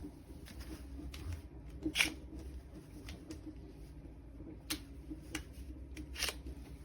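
A few light, sharp clicks and knocks of plastic vacuum-cleaner parts being handled, the loudest about two seconds in, over a faint low hum. The vacuum is not running.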